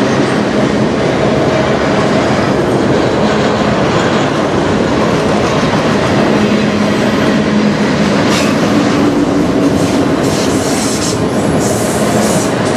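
Cars of a manifest freight train, tank cars and autorack cars, rolling steadily past: a continuous rumble of steel wheels on rail, with a run of sharp clicks and rattles from about eight seconds in.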